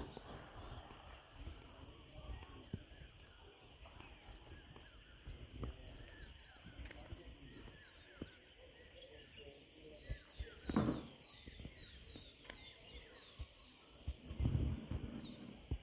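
Birds calling outdoors, one repeating a short falling chirp every second or two over fainter chirping. Low rumbles and thumps run underneath, with a louder knock about eleven seconds in.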